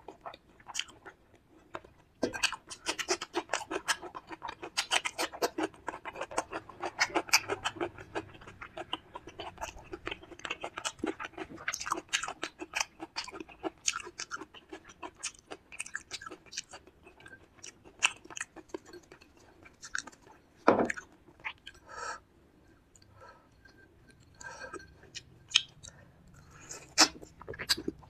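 Close-miked wet chewing and mouth smacking of someone eating fish curry with rice: a dense run of quick clicks, then sparser, with a few louder single smacks near the end.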